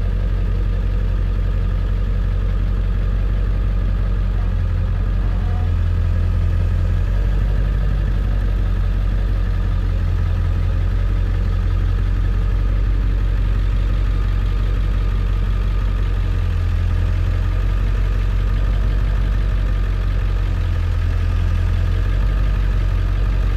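Pickup truck engine idling steadily with a deep low rumble.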